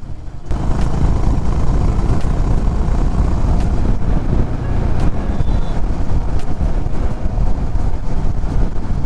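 Wind rushing over the microphone of a moving Honda H'ness CB350 motorcycle, with the single-cylinder engine running underneath. The noise is steady and heavy in the low end, and starts abruptly about half a second in.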